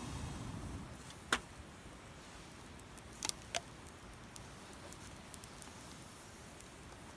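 Damp firewood burning in a small fire stand, crackling with sharp pops: a loud one about a second in, two more near the middle, and small ticks after, over a faint steady hiss. A low rumble fades out in the first second.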